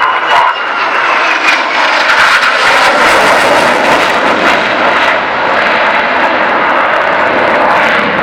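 Aircraft flying past with loud, steady engine noise, with a faint falling whine in the first couple of seconds.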